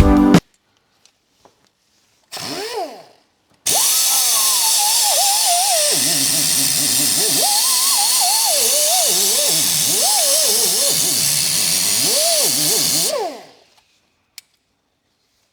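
Handheld power tool motor briefly triggered about two seconds in, then run for roughly ten seconds with its whine rising and falling as the trigger or load changes, before stopping.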